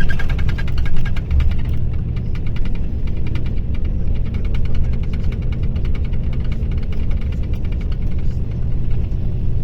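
Mercedes-Benz O-500RSD coach's diesel engine running steadily: a low drone made of rapid, even firing pulses.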